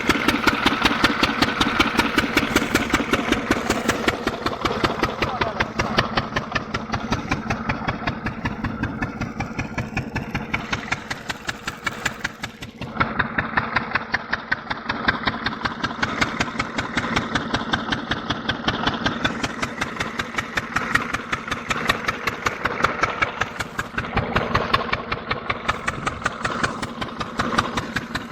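Single-cylinder diesel oil engine running at a steady speed with a fast, even beat, driving the compressor that lifts water from a borewell. The level dips briefly about halfway through, then picks up again.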